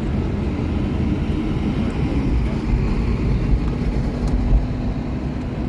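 Car driving, heard from inside the cabin: steady low engine and road rumble with tyre noise, and a faint steady hum joining in about halfway through.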